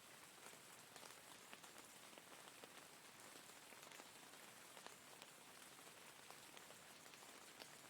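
Rain falling steadily: a faint, even hiss with many small drop ticks scattered through it.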